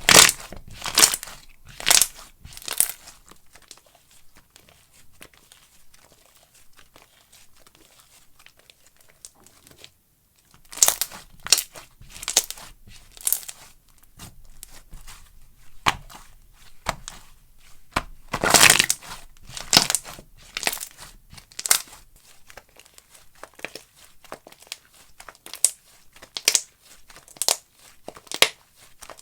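Slime being squeezed and worked by hand, with clusters of crisp crackling and crinkling pops. There is a quieter stretch from about three to ten seconds in, then the crackling picks up again.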